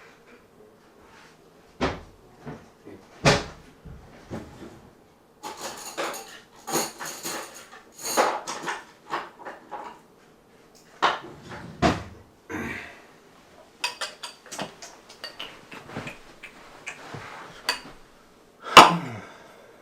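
A run of irregular knocks and clatters of household objects being handled in a small room, with the loudest knock near the end.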